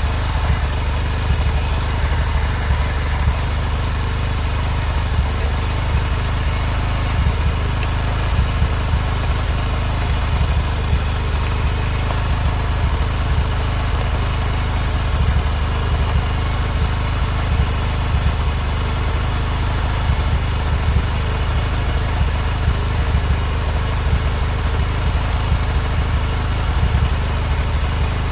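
Bajaj CT 100 motorcycle's single-cylinder four-stroke engine idling steadily through its exhaust silencer.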